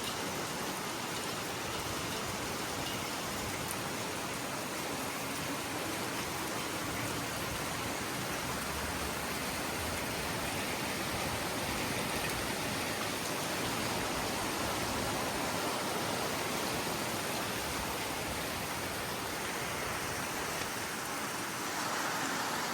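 Heavy rain falling steadily, a dense even hiss of downpour on surfaces, with water running.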